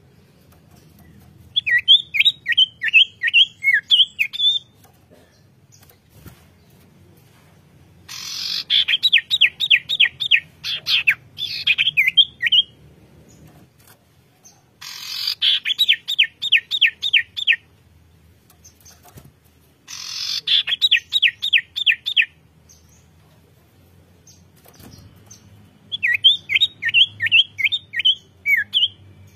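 A songbird singing in repeated phrases, each a quick run of about ten sharp downward-sweeping whistled notes lasting two to three seconds, with a pause of a few seconds between phrases. Three of the five phrases open with a short harsh, scratchy burst.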